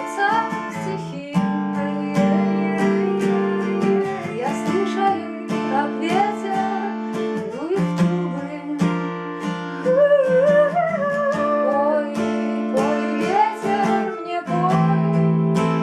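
Acoustic guitar playing the chords of a song, with a wavering melody line above it and no words sung; the chords change several times.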